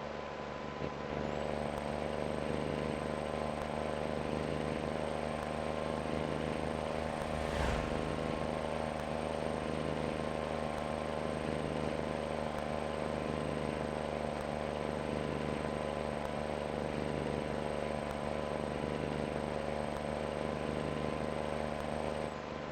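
Steady drone of a Scania's diesel engine, heard from on board while it drives along, with a brief falling whoosh about eight seconds in.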